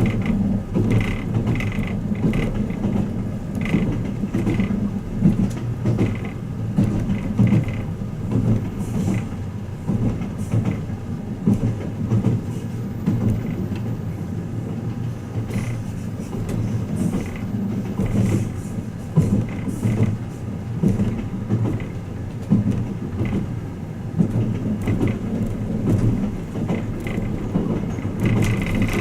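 Running noise heard inside a passenger car of the Twilight Express Mizukaze (JR West 87 series) while the train is moving: a steady low rumble with light creaks and clicks from the car's fittings.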